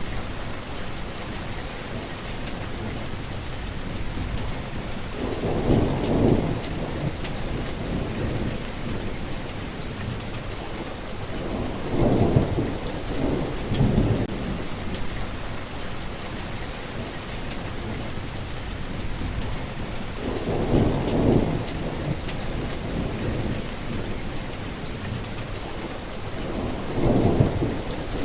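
Steady heavy rain falling, with rolls of thunder rumbling about five times, each swelling up for a second or two.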